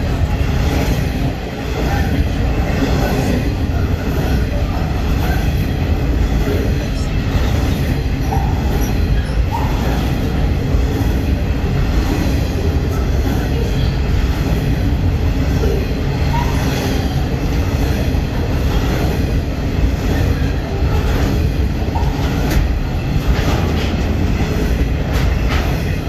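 Freight train of hopper wagons rolling past close by: a loud, steady rumble of steel wheels on rail, with clicks as the wheels cross rail joints.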